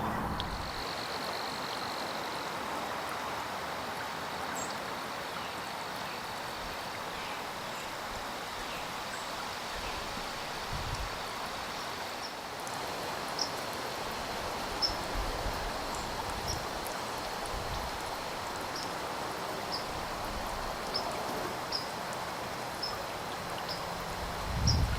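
Small songbirds giving short, high chip notes, about one a second through the second half, over a steady outdoor hiss and a thin high steady tone.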